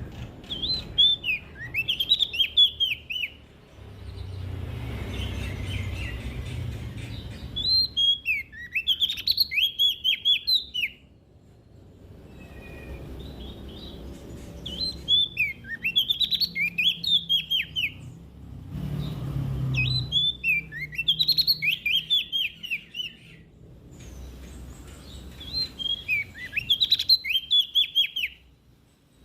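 Prenjak daun (leaf warbler) singing: five bursts of quick, high, chirping notes, each lasting two to three seconds and a few seconds apart, over a low background rumble.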